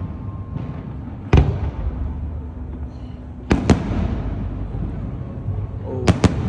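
Aerial fireworks exploding: a sharp boom about a second in, two close together in the middle, and two more close together near the end, over a continuous low rumble of the display.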